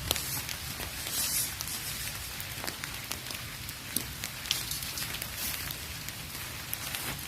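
Heavy rain falling steadily, with many separate drops landing as sharp taps over a constant hiss.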